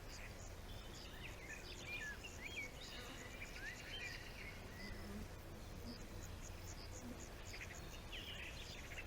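Forest ambience: insects keep up a steady high pulsing trill, while birds give short rising and falling chirps for the first few seconds, over a low steady rumble.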